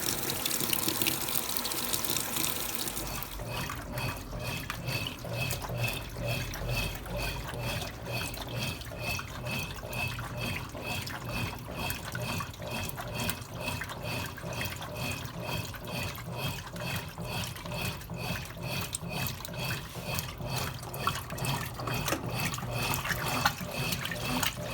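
Consul Cargo 8 kg washing machine with water in the tub: water rushes in for about three seconds, then a steady rhythmic water churning of about two strokes a second sets in over a low motor hum.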